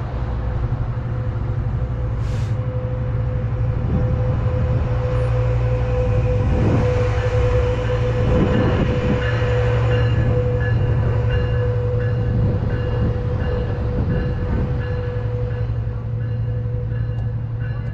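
Metrolink diesel commuter train passing: a steady engine drone with a steady mid-pitched tone over it, and a run of knocks from the wheels on the track through the middle, easing off near the end.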